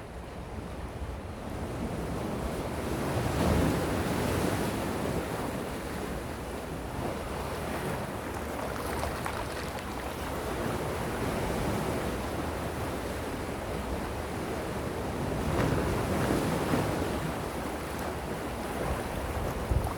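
Gentle sea waves washing ashore in a continuous hiss that swells twice, a few seconds in and again about three-quarters of the way through.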